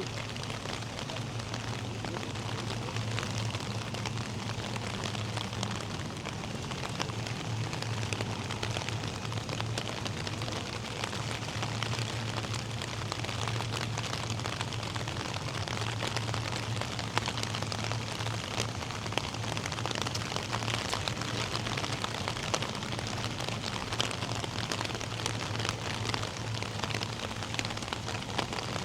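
Steady rain falling, a dense patter of drops hitting hard surfaces, with a low steady hum underneath.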